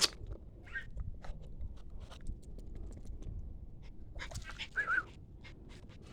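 Poodle puppy moving about, with scattered light clicks and taps and a brief high whimper about five seconds in.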